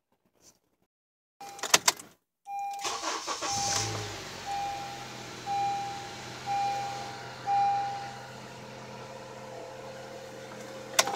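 2012 Honda CR-V's four-cylinder engine starting after a few clicks, then settling into a steady idle, on its first start after being refilled with fresh oil. A dashboard warning chime beeps about once a second for several seconds as it starts.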